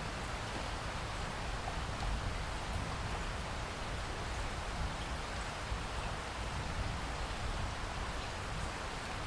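Steady rain falling: an even hiss with fine scattered drops pattering.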